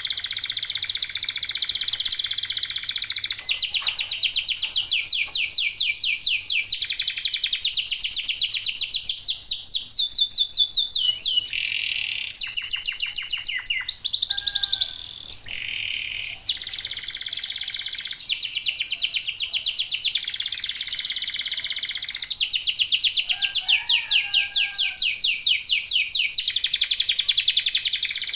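Domestic canaries singing: a continuous song of very fast trills, each rapid run of repeated notes held for a second or two before switching to a different trill.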